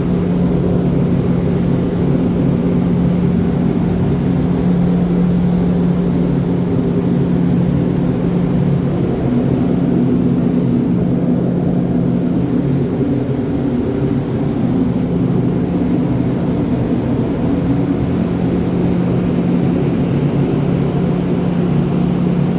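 A motor vehicle's engine running at a steady speed, a constant hum that fades a little about halfway through before holding steady again.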